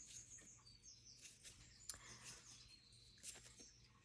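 Near silence with a faint low hum, broken by a few short, faint high chirps of small birds and a couple of soft ticks.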